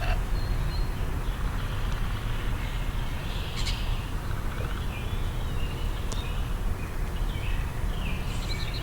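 Wild birds chirping with short, scattered calls, some gliding in pitch, over a steady low rumble.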